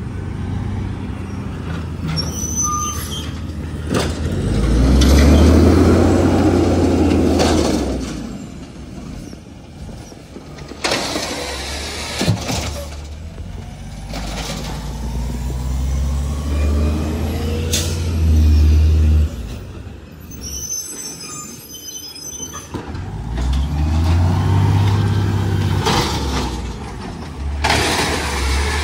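Garbage truck's diesel engine revving up three times, each for a few seconds, with air-brake hisses and brief high squeaks in between.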